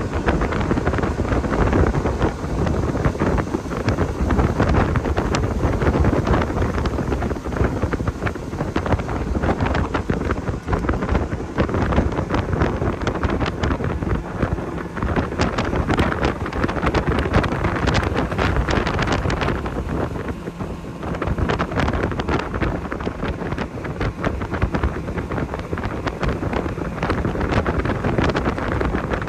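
Heavy wind buffeting the microphone on a moving motorboat, with the boat's running noise and water rushing underneath.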